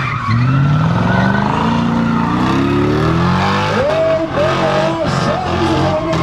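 Car engine revving hard in a burnout, its pitch climbing steadily for about three seconds. From about four seconds in, tyre squeal wavers over the engine.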